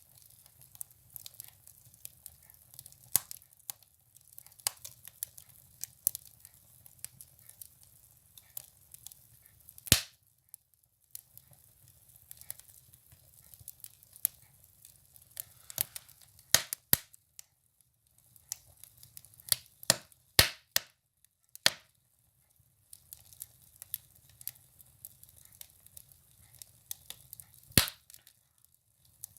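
Firewood burning in a wood stove: irregular sharp crackles and pops, a few louder snaps among them, over a faint low rumble of the fire.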